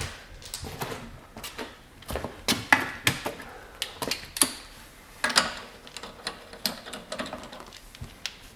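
Metal wheel bolts and tools clinking as they are handled and picked out, a string of irregular sharp metallic clicks and clanks.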